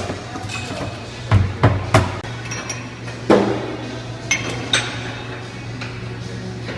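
Hard objects knocking and clinking: three quick knocks about a second in, a louder knock near the middle, then two lighter clinks, over a steady low hum.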